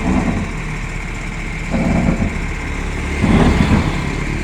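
Heavy vehicle engine idling steadily, with two brief louder bursts about two and three seconds in.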